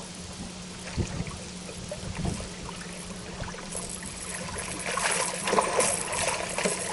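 A hooked blue catfish splashing at the surface beside the boat during the second half, after a couple of dull knocks on the boat early on. A steady low hum runs underneath.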